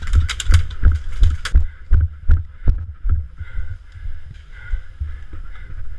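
Rapid clatter of airsoft gunfire for about the first second and a half, then a string of irregular sharp knocks and deep thuds close to the camera.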